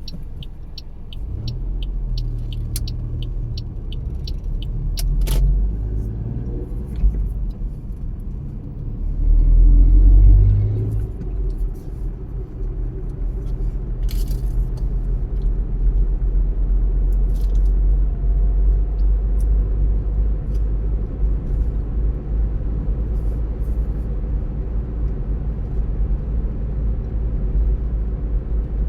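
A car driving, a steady low engine and road rumble throughout. A fast, regular ticking runs for the first four seconds, a sharp click comes about five seconds in, and the rumble swells louder for a second or two around ten seconds in as the car accelerates.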